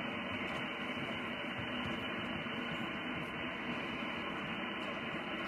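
Steady static and hiss from an amateur radio transceiver's speaker, tuned to an empty stretch of the 20-metre band with no signal coming through.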